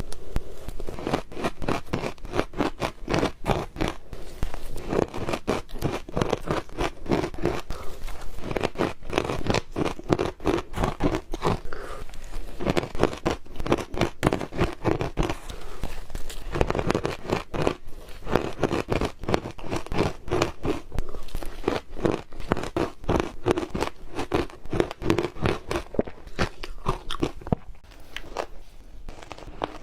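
Ice cubes being bitten and chewed close to the microphone: a rapid, continuous run of crisp crunches, thinning out a little near the end.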